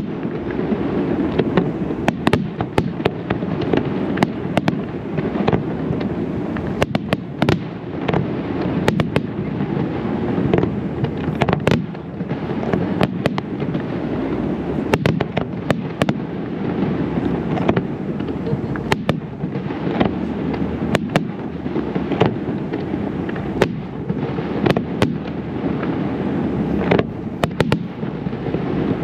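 Fireworks display: aerial shells bursting one after another, many sharp bangs a second at times, over a continuous rumble of overlapping explosions.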